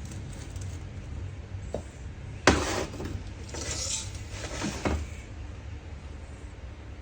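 A sharp knock about two and a half seconds in, followed by a couple of seconds of rubbing and clatter, over a low steady hum.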